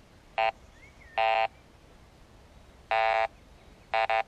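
Garrett Ace 200i metal detector beeping as its coil is swept over a buried target suspected to be large iron: a short beep, a longer one, a long one, then two quick beeps near the end.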